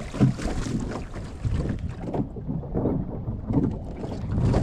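Waves slapping and splashing against a small sailing dinghy's hull in short, uneven surges, with wind buffeting the microphone.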